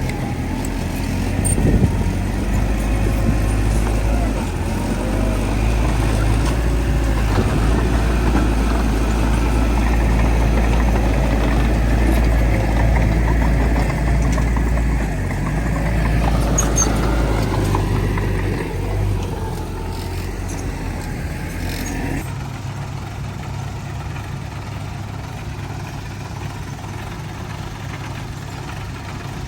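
Diesel engines of heavy earthmoving machinery working, a deep steady engine hum with scattered knocks. About three-quarters of the way through, the heaviest low rumble cuts off suddenly and a lighter engine idle carries on.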